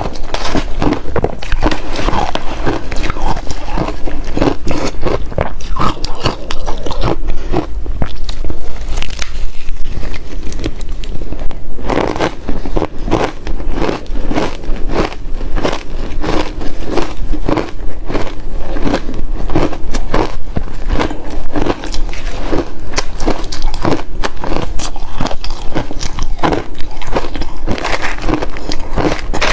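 Close-miked biting and chewing of ice: a steady run of loud crunches and cracks, several a second, as chunks are bitten and crushed between the teeth.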